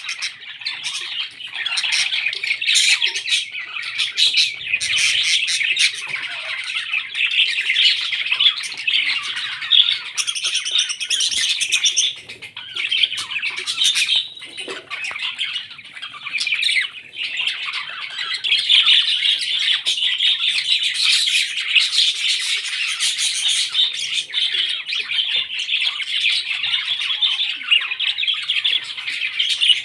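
Parrots chattering nonstop, a dense mix of chirps, squawks and short sharp clicks.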